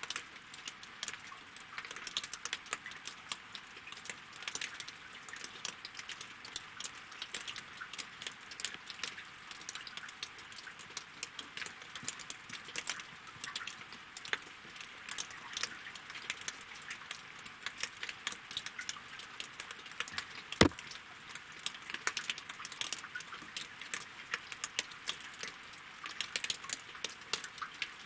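Steady rain falling on lake water and wooden logs, heard as a continuous hiss of many separate, sharp drop hits, with one louder single tap about twenty seconds in.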